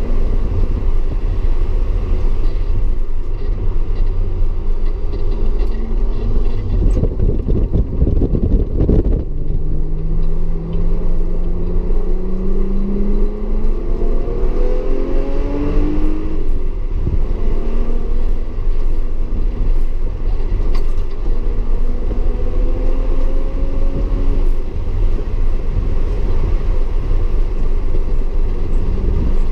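Audi S4 engine pulling at speed over a constant low rumble. Its note climbs slowly, falls off sharply about sixteen seconds in, then climbs again.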